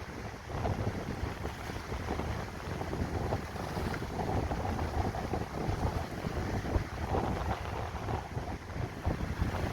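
Wind buffeting the microphone in uneven gusts, over the wash of choppy water.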